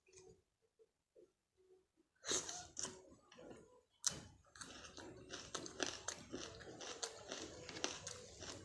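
Close-miked chewing and biting of food, with crunches and quick moist clicks of the mouth, starting a couple of seconds in and growing busier and steadier after about four seconds. Before that, faint repeated cooing of a pigeon or dove.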